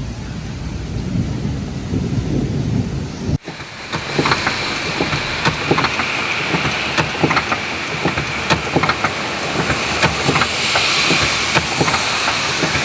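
Heavy rainstorm with a low rumble. About three seconds in it cuts abruptly to hissing rain with many sharp taps of drops hitting nearby.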